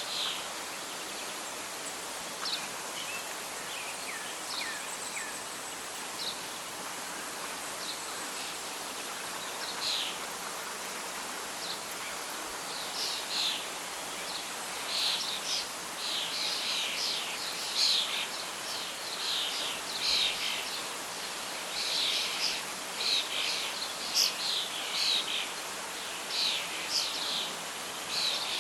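Outdoor nature ambience of steady soft wind and leaf rustle, with birdsong. The birds chirp only sparsely at first, then sing densely from about halfway through.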